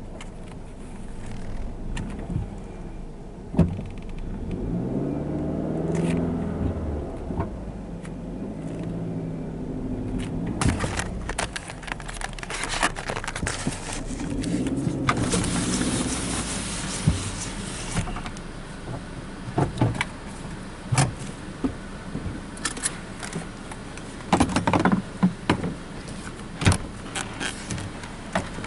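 Car engine running at low speed, heard from inside the cabin as the car creeps forward, its pitch rising and falling twice. Scattered clicks and knocks, and a stretch of hiss in the middle.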